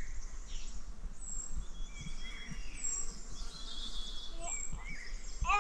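Several small birds chirping and calling, with one short high note repeated every couple of seconds, over a steady low background rumble.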